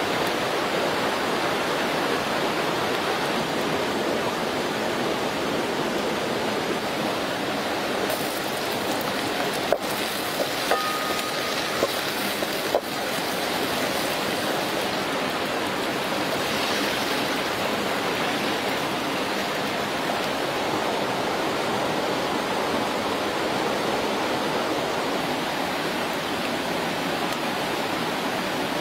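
Steady loud hiss of food cooking in a wok over a fire: garlic and chili sizzling in oil, then frog soup boiling. A few sharp clicks of utensils on the pan come around the middle.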